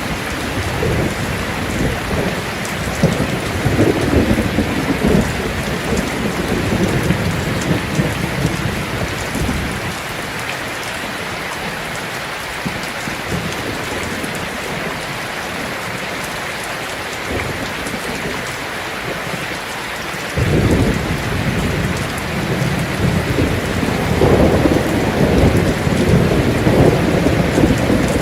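Heavy rain falling on a tin roof in a steady hiss, with rolling thunder. The thunder rumbles through the first third and dies away, then a new peal breaks suddenly about two-thirds of the way in and keeps rumbling.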